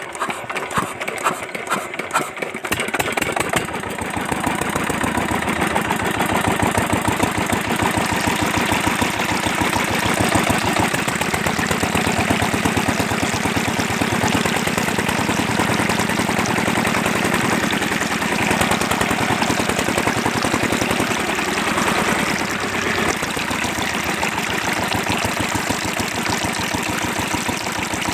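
Small diesel engine driving a homemade water pump, starting up: a few uneven firing knocks for the first couple of seconds, then it catches and runs at a fast, steady beat.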